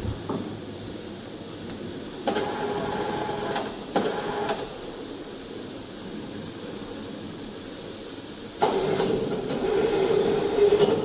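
Heavy steel machine parts being shifted, scraping and squealing. There are three bouts, starting suddenly about two seconds in, at four seconds, and near the end; the last is the longest.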